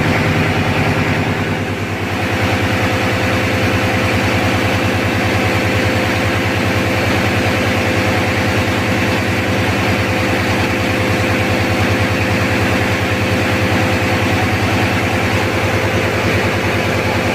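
Marine diesel engine running steadily in a ship's engine room, a loud, even drone with a fast beat.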